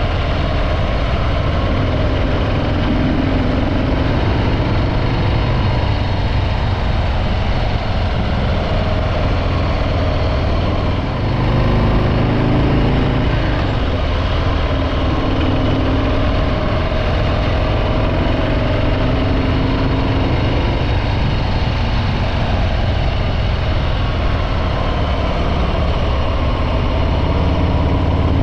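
Stock-exhaust Harley-Davidson Breakout 114's Milwaukee-Eight V-twin running on the road. There is a brief dip about eleven seconds in, then the engine pulls louder with its pitch shifting.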